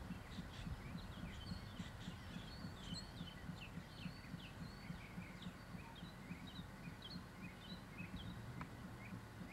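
Songbirds chirping: many short, quick descending chirps throughout. Underneath is a faint, low, regular throb.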